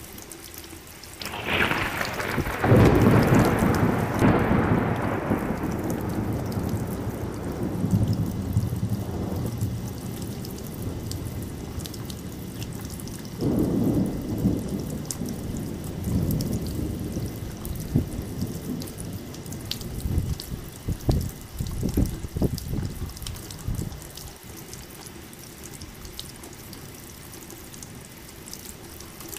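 Thunderstorm: steady rainfall with a long peal of thunder rolling in about a second and a half in and fading over several seconds, a second rumble midway, and a run of short crackling thunder cracks later on.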